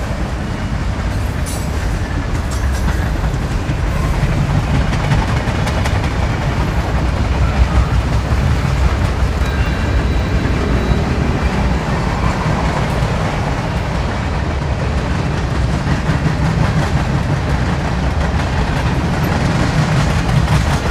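Battery-powered toy trains running on plastic track: a steady hum of small motors with the rattle of wheels over the track joints.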